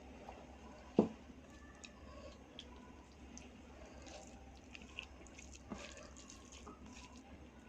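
Soft, wet eating sounds from a meal of dal and rice with vegetable curries: scattered small moist clicks and squishes of chewing and mixing food, with one louder thump about a second in.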